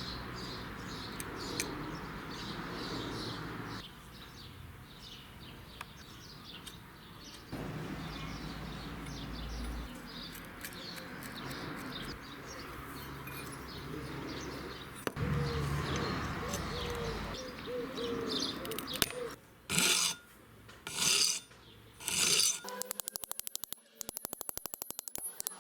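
Rubbing and scraping in several short segments that start and stop abruptly, then three short loud bursts and, near the end, a fast, even run of clicks.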